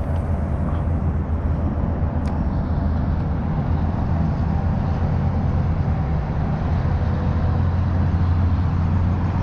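Boat engine running at a steady pace, a constant low droning hum with no change in pitch.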